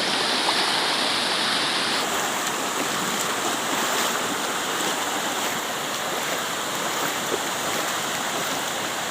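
Steady rushing noise of flowing water, changing character about two seconds in.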